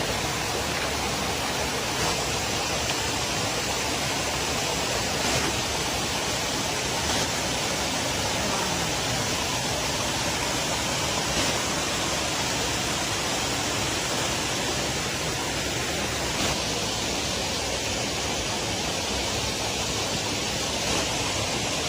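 Steady rushing of flowing river water, an even hiss with no change throughout, with a few faint ticks now and then.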